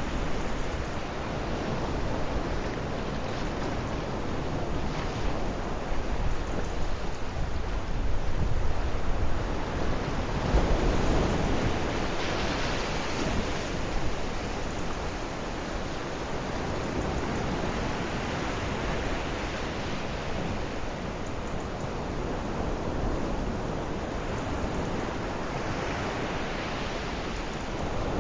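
Sea waves washing onto the shore: a steady surf hiss that swells and ebbs, with louder surges about a third of the way in and again near the end.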